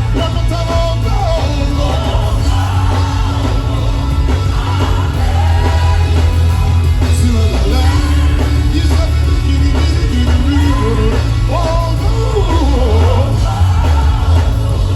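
Live gospel worship music: a band playing with strong, steady bass while a vocalist sings over it.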